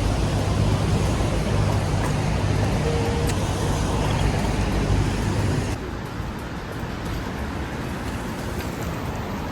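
City street traffic noise: a large vehicle's engine runs close by with a steady low hum, then about six seconds in the sound drops abruptly to lighter, even traffic noise.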